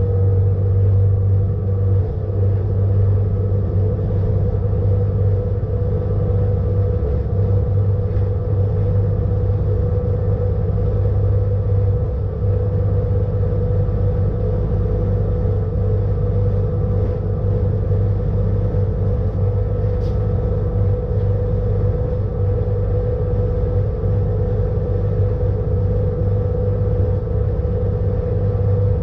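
Electric rack-railway train running steadily downhill, heard from inside the driver's cab: an even rumble with a constant deep hum and a steady higher tone. A single brief click about twenty seconds in.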